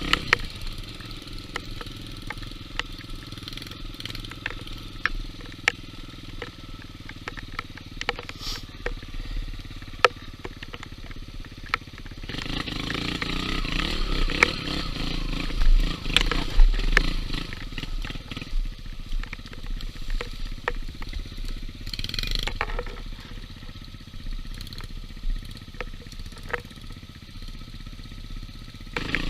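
Yamaha XTZ125 single-cylinder four-stroke trail motorcycle running along a dirt trail, pulling harder and louder for several seconds in the middle before easing off. Frequent sharp clicks and knocks ride over the engine throughout.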